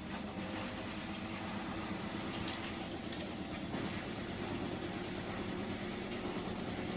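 Hotpoint washing machine running steadily with about two minutes left on its cycle, a constant motor hum with a few faint knocks around the middle.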